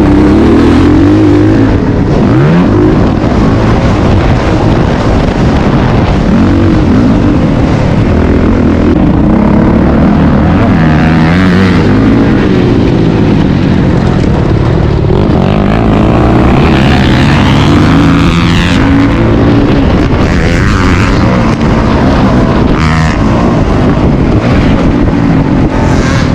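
Motocross dirt bike engine being ridden hard, its revs climbing and dropping over and over as the rider works the throttle through the track. It is loud and continuous throughout.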